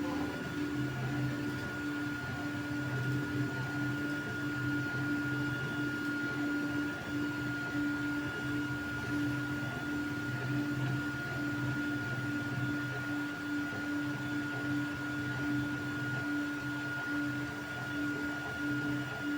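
Creality Ender 3 V3 3D printer at work: its stepper motors hum in short, irregular bursts of changing pitch as the print head moves, over a steady high whine.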